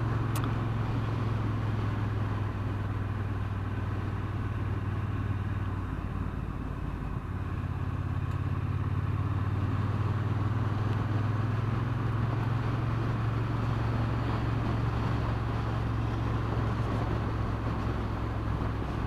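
Triumph Bonneville T120's parallel-twin engine running at a steady cruise, with rushing road and wind noise. The engine note dips and wavers about six seconds in, then settles back to a steady pull a second or so later.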